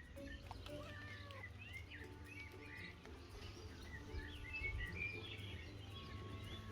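Several songbirds chirping and singing at once, many short overlapping calls and quick warbling notes, over a low steady hum.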